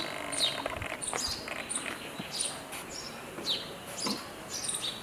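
Small birds chirping, short high chirps repeating about twice a second over faint outdoor background hiss.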